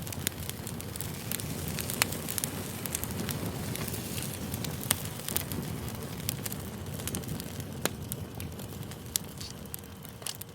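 Wood campfire crackling: a steady low rush of burning with frequent sharp pops and snaps, the loudest about two, five and eight seconds in. It softens slightly near the end.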